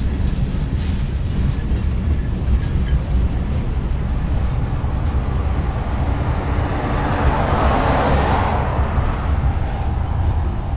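Freight train rolling by with a steady low rumble. A louder rushing noise swells up and dies away a little past the middle.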